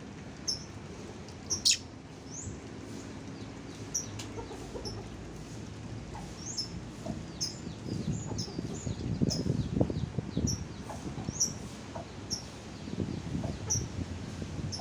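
Oriental magpie-robin (kacer) song material: short, sharp, high chirps repeating about once or twice a second. Louder, lower-pitched rough calls come in around the middle and again near the end.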